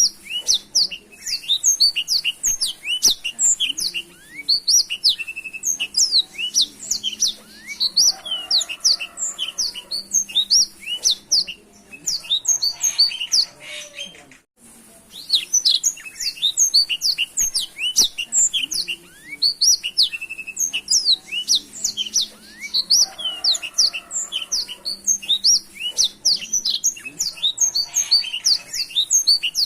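Black-throated canary (blackthroat) singing a long, rapid twittering song of quick chirps and trills without letting up, with a brief break about halfway through.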